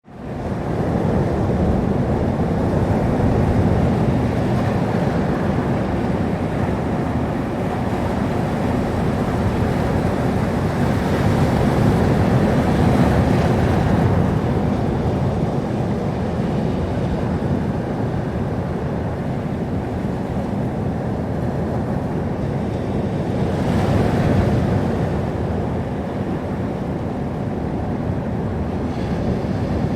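Sea waves breaking and washing on a shore, a steady rushing surf that swells gently every so often.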